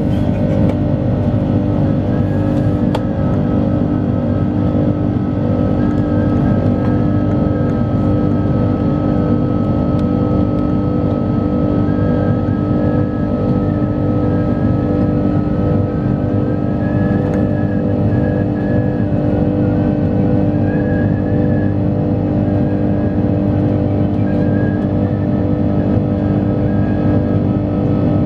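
Airbus A330-300 jet engines running at steady high thrust, a loud unchanging drone with several steady whining tones, heard on board during the climb after takeoff.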